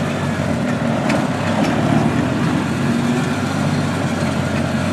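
Engine of a Ranger utility vehicle running steadily as it drives along, with a couple of faint clicks about a second in.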